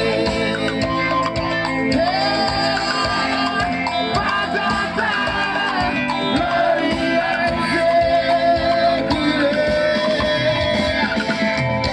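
Live band playing a song: a singer's held, wavering lines over guitar and drums with a steady beat.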